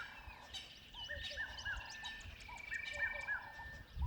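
Faint chorus of wild animal calls by the water: short chirping notes repeated in small groups, with a steady high trill held for a second or so at a time.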